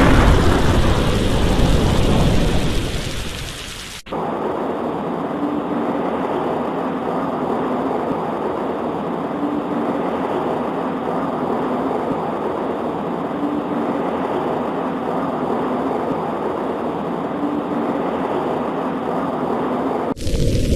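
A thunderclap rumbling and fading away over about four seconds, then an abrupt switch to steady, muffled rain noise with a faint low tone recurring about every four seconds.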